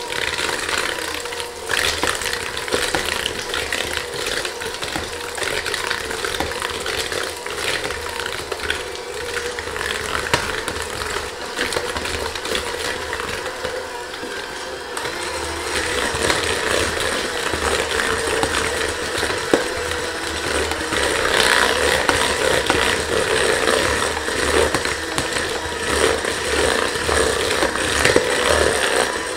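Electric mixer running steadily, its beaters rattling as they beat softened cream cheese, brown sugar and maple syrup; the motor gets louder and higher about halfway through.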